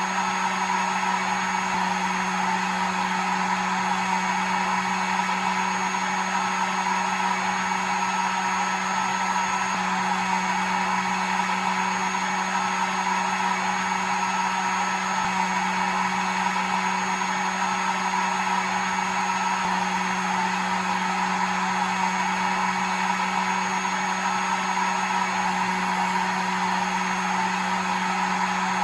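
Hair dryer running steadily: a constant blowing rush over an even motor hum with a faint high whine, with no change in speed.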